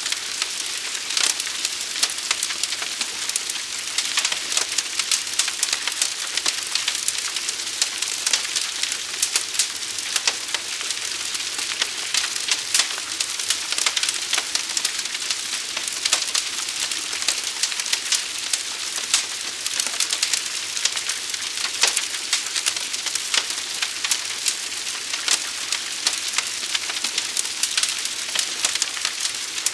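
Fire burning with a steady hiss and dense, constant crackling pops.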